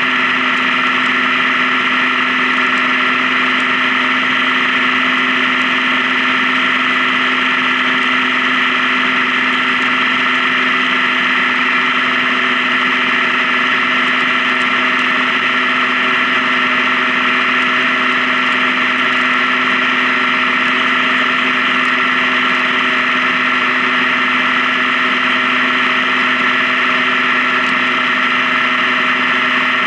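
Honda Gold Wing touring motorcycle running at a steady cruise on the highway, its engine tone holding even with a constant rush of road noise.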